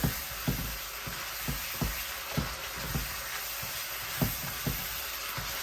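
Aromatics and Cambodian fermented fish paste frying in a pan with a steady sizzle. A stirring utensil knocks and scrapes against the pan about twice a second, the strokes thinning out in the second half. The aromatics are being fried first to bring out their smell before the meat goes in.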